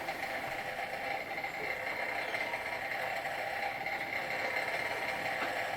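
Huxtable hot-air Stirling engine running steadily, driving belt-driven model fairground rides: an even mechanical whirr with a few constant tones.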